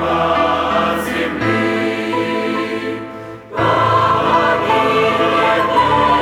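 Church choir singing a hymn in held chords, with a short break between phrases about three and a half seconds in before the next phrase comes in louder.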